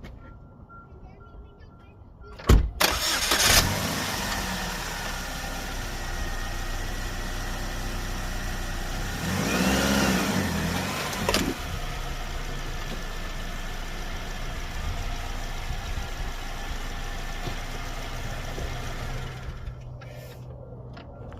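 A 2009 Chevy Cobalt's 2.2-litre four-cylinder engine starting after an oil change. It flares briefly on start, then runs steadily. A sharp click comes just before the start. About ten seconds in, the engine note rises and falls briefly, as it would when the car is driven off the ramps.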